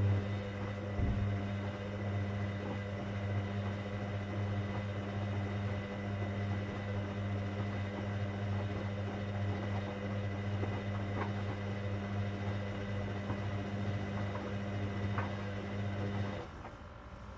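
Hoover Dynamic Next washing machine running on a cotton 60 programme: a steady low hum with faint clicks on top, cutting off abruptly near the end.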